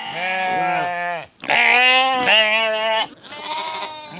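Sheep bleating: a run of long baas one after another, some wavering in pitch, with a short gap between each.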